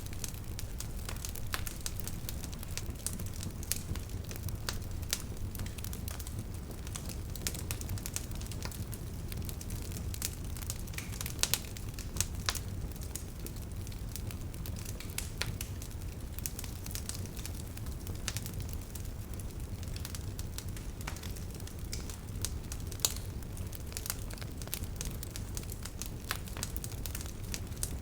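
Wood bonfire crackling, with sharp pops and snaps scattered irregularly over a steady low rumble.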